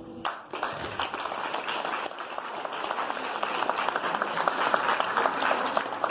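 Audience applauding: many hands clapping, starting a moment in just as a piano piece ends.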